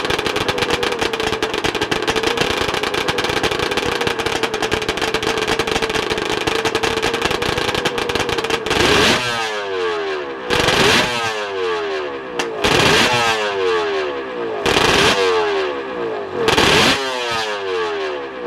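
750 cc two-stroke triple race engine of a Harris Barton motorcycle, held at steady revs for about nine seconds. Then it is blipped sharply five times, about every two seconds, the revs falling away after each blip.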